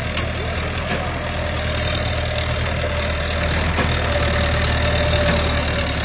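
Mahindra tractor's diesel engine running steadily at idle, getting slightly louder through the middle.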